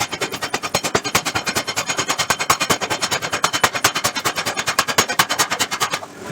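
Power hammer striking a steel billet in rapid, evenly spaced blows that stop about six seconds in.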